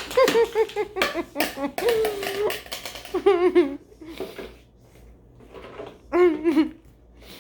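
Laughing and giggling, with pitched, wavering bursts of laughter about three seconds in and again about six seconds in. Sharp clicks and knocks sound through the first couple of seconds.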